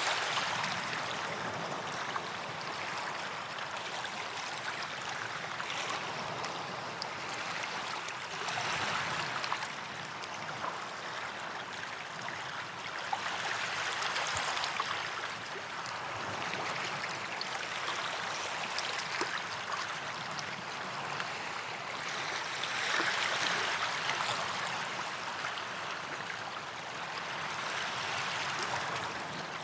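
Small waves breaking and washing up a sandy beach, the surf swelling and fading every few seconds with a fine fizzing of receding water.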